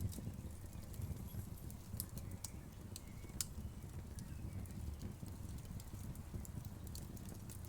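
Wood fire burning: a low, steady rumble of flames with scattered sharp crackles and pops from the wood, the loudest pop about three and a half seconds in.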